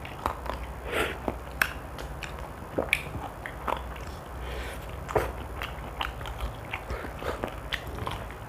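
Biting and chewing on a fried chicken drumstick held close to the microphone, with many irregular short clicks. A steady low hum runs underneath.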